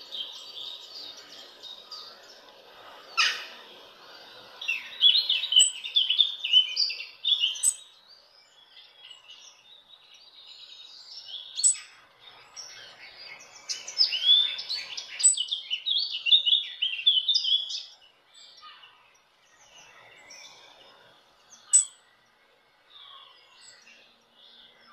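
A small bird chirping and twittering in two long, quick bouts, with scattered single chirps and a few sharp clicks between them.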